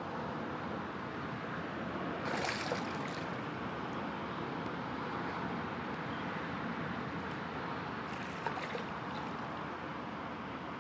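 Steady rushing noise of wind and water, with two brief splashes of a hooked carp fighting at the surface near the landing net, about two seconds in and again near the end.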